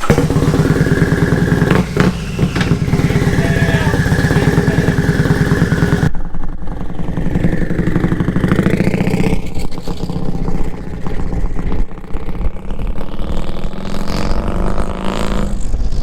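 Turbocharged Harley-Davidson 107 V-twin running loudly with rapid, even firing pulses. About six seconds in the sound changes, and later its pitch rises and falls several times as the engine is revved.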